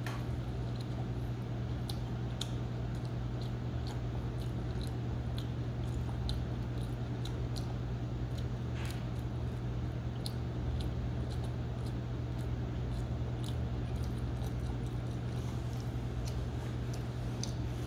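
Chewing pizza with small, irregular mouth clicks and smacks over a steady low hum.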